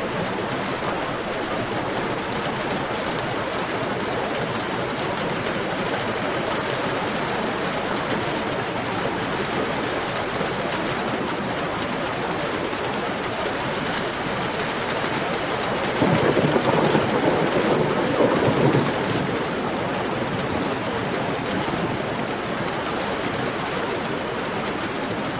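Heavy rain falling steadily. About two-thirds of the way through, a sudden low rumble of thunder rises over it for about three seconds.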